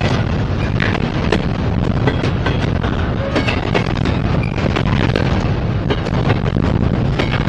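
Freight train rolling past close by: a loud, steady low rumble of wheels on rail with frequent sharp clicks and clacks.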